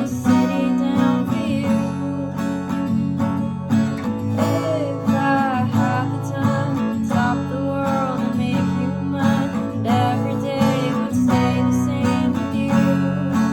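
Music with strummed acoustic guitar playing steadily.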